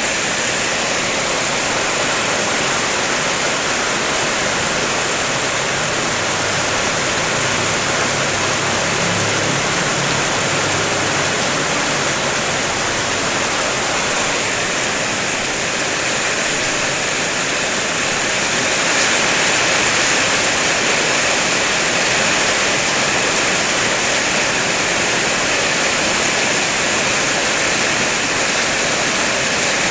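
Heavy rain falling on a car's roof and body, heard from inside the car: a steady, dense wash of patter.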